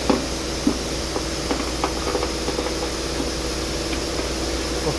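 Steady mechanical hum with a hiss over it, and a few light clicks in the first two seconds as small metal parts are handled.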